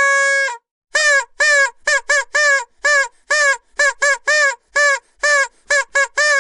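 Vuvuzela blown in short blasts: a held note ends about half a second in, then comes a rapid string of short toots, each dipping slightly in pitch as it stops.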